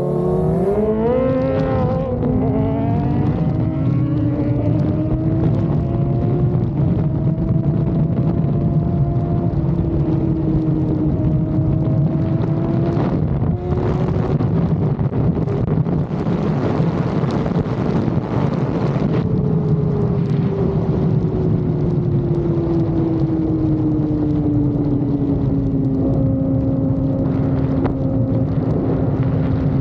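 Motorcycle engine under way: revs climb quickly through a couple of gear changes in the first seconds, then settle into a steady cruise and slowly drop off in the second half, over a constant rumble of wind and road noise.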